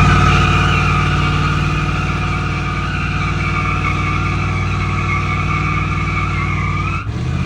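Car engine held at high revs while its tyres spin and squeal continuously on the pavement; the squeal cuts out for a moment near the end, then resumes.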